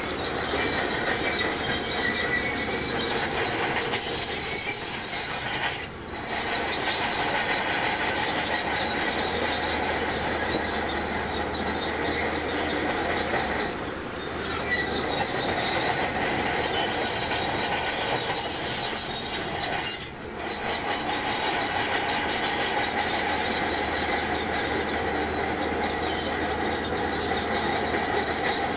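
Crawler bulldozer at work: engine running under load with a steady high-pitched squeal from its steel tracks. It eases off briefly about six seconds and again about twenty seconds in.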